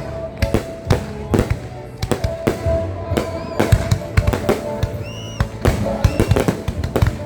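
Fireworks going off: a rapid, irregular string of sharp bangs and pops, with music playing underneath.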